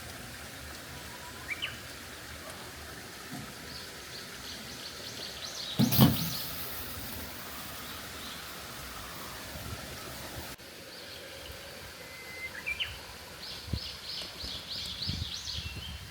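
Small birds calling over a steady background hiss: short chirps and two runs of quick repeated high notes. About six seconds in, a single loud thump.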